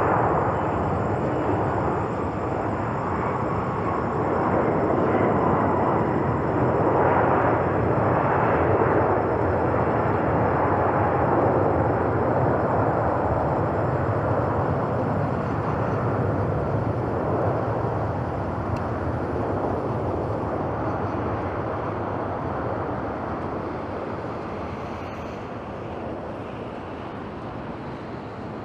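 Boeing 747-400F freighter's four jet engines at takeoff thrust: a steady, loud roar that slowly fades over the last several seconds.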